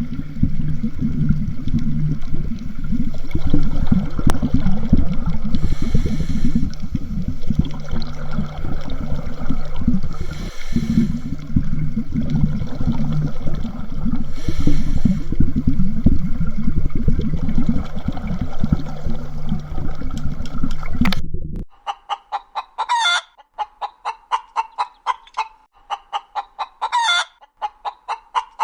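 A loud, dense low sound runs for about twenty seconds and cuts off sharply. Then a chicken clucks in a steady series of short clucks, about two a second.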